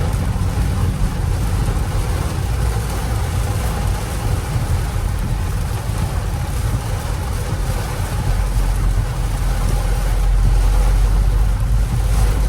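BMW X3 M's twin-turbo straight-six and tyre noise while driving, a steady low rumble with a hiss over it, growing a little louder about two-thirds of the way through.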